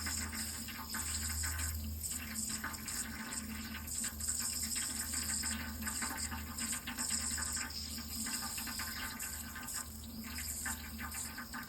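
Water running steadily in a continuous, even stream.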